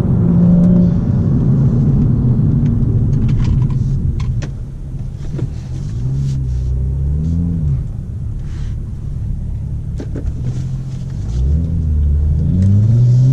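BMW M235i's turbocharged inline-six running through an Armytrix aftermarket exhaust, heard from inside the moving car: a steady low drone, then the engine note dips and rises through gear changes and climbs again near the end as the car accelerates.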